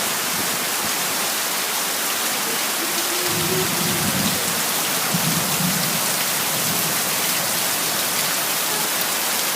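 Heavy rain falling steadily. A low rumble comes in twice, about three seconds in and again about five seconds in.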